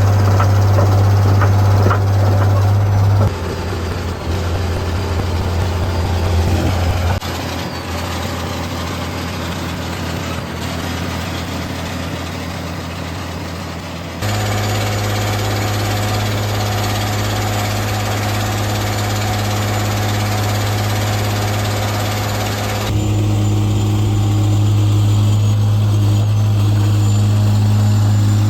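Case 170B excavator's diesel engine running steadily with a deep hum, in several cut-together stretches whose level changes abruptly.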